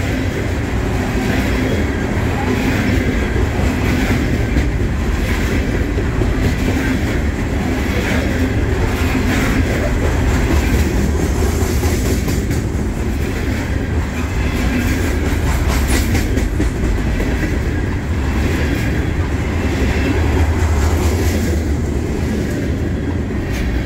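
Coal train's steel-wheeled hopper cars rolling past: a steady low rumble with the clickety-clack of wheels over the rail joints and scattered sharp clicks.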